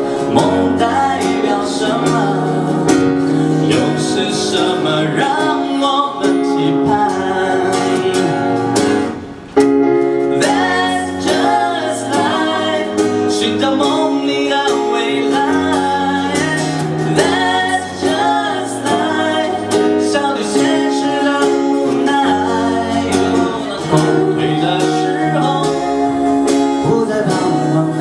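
Live band playing a pop song, with singing over guitar and bass. About nine seconds in the music drops briefly, then comes back in full.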